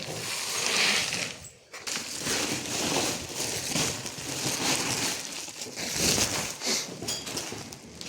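Dry animal feed or straw being handled and poured out, a crunching rustle that comes in several swells.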